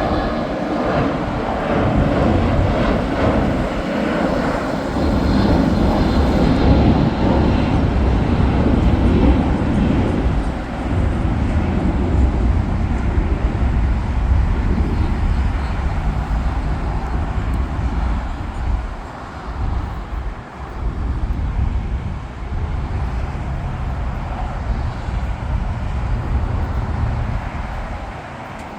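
Jet airliner engines passing at close range: a loud rumble, strongest over roughly the first ten seconds, then gradually easing off.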